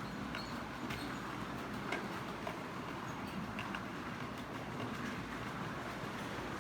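HO-scale model train running on the layout: a steady electric-motor hum and wheel rumble on the track, with a few light clicks scattered through it.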